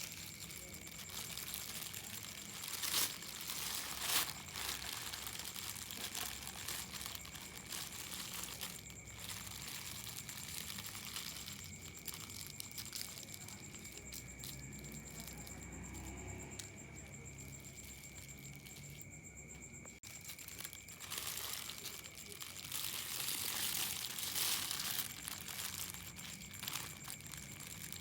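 Crinkling and light clinking handling noises, loudest in a few sharp clicks early on and in a busier stretch near the end, over a steady faint high whine.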